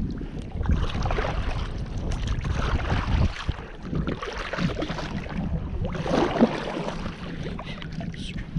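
Wind rumbling on the microphone over water and kayak noises: an uneven rumble with crackling and small knocks, loudest about three seconds in and again around six seconds.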